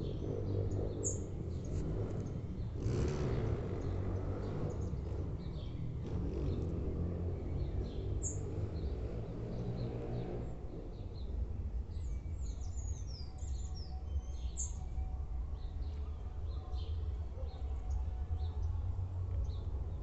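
Small birds chirping in short, high calls, a few scattered and a cluster a little past halfway, over a steady low rumble.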